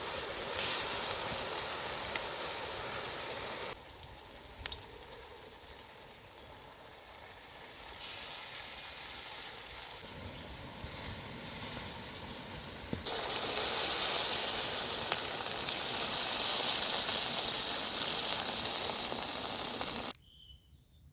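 Food sizzling as it fries in hot oil in a pan. The sizzling is loud at first, softer for a long middle stretch, then loud again, and it cuts off abruptly near the end.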